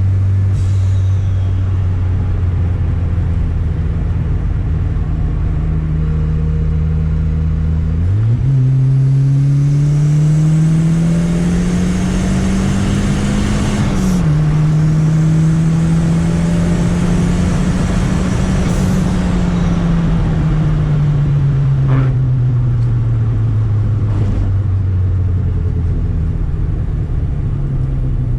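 Turbocharged Chevrolet Chevette's four-cylinder engine running under way. The note holds steady, jumps up about eight seconds in and climbs as the car accelerates, drops sharply at about fourteen seconds like a gear change, then rises a little and slowly falls away as the car eases off.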